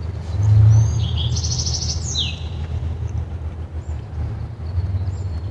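Steady low rumble of passing truck traffic, swelling loudest about half a second in. Over it, a songbird sings one high phrase about a second in: a few short sweeping notes, a fast trill, then a falling slur.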